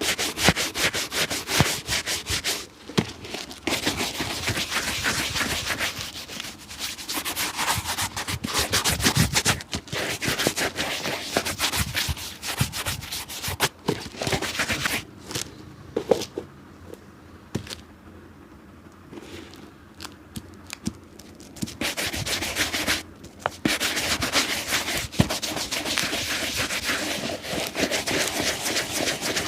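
Rapid back-and-forth rubbing strokes of a cobbler's hand tool scrubbing a leather shoe, easing off into a quieter stretch of a few seconds past the middle.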